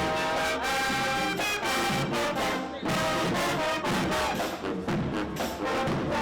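Marching band brass, trombones and trumpets, playing sustained chords, with drum hits.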